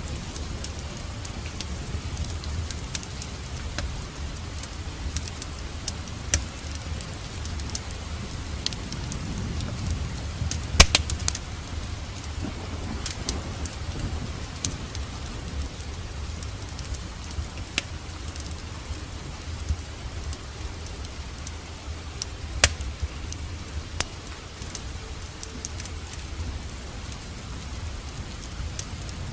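Steady rain falling, with a wood fire crackling over it in scattered sharp pops, the loudest a quick cluster about eleven seconds in and a single pop about twenty-three seconds in. A low rumble runs under it all.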